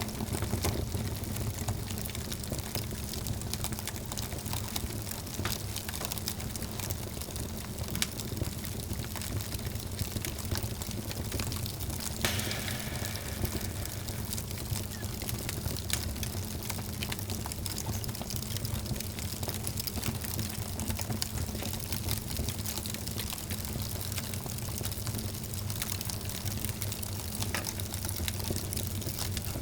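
Wood fire burning in a fireplace, crackling with frequent small pops over a steady low rumble. There is a sharper pop about twelve seconds in.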